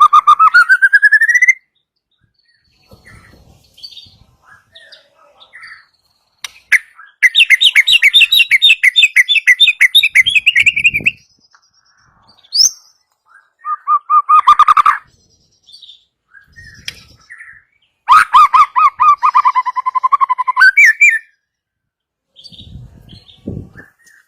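White-rumped shama singing in loud bouts of rapid, evenly repeated notes, rattling trills, with short pauses and faint calls between the bouts.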